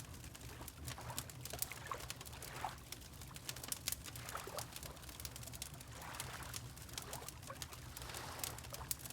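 Water lapping in soft swells every couple of seconds, with a wood fire crackling in small, scattered pops throughout, over a steady low rumble.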